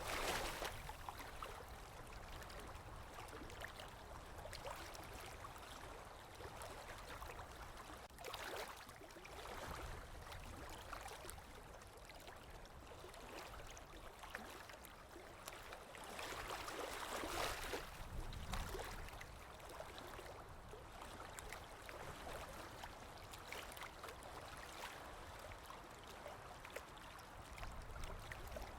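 Sea waves washing in on a shore, swelling and fading about every eight or nine seconds, with a steady hiss of water in between.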